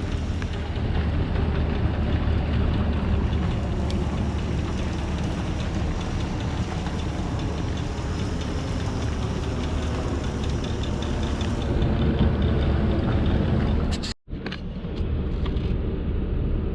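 Truck engine running steadily with a low drone. It cuts off abruptly about fourteen seconds in, then comes back quieter with a few light ticks.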